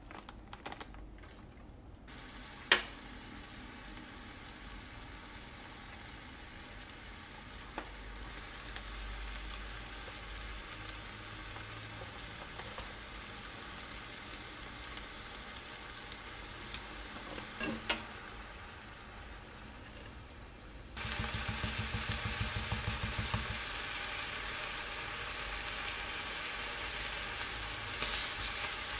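Pork belly and kimchi sizzling in a frying pan, the sizzle stepping up sharply about two-thirds of the way through with a brief fast rattle. A single sharp click about three seconds in, and a few light clicks near the end.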